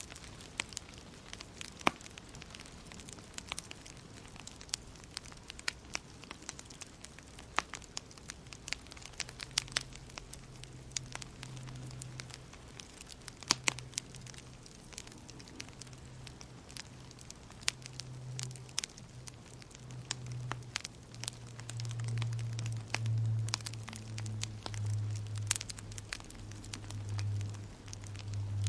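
Wood fire crackling, with irregular sharp pops and snaps over a soft hiss. A low hum comes in about a third of the way through and swells louder near the end.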